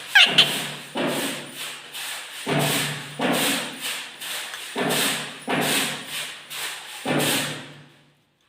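Pet parrot calling in a string of short, speech-like utterances, opening with a falling whistle.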